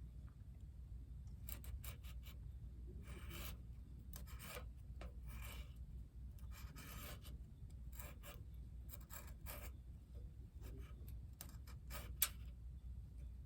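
A string of short scraping or rubbing strokes at irregular intervals, some lasting about half a second, over a steady low rumble, with one sharp click about twelve seconds in.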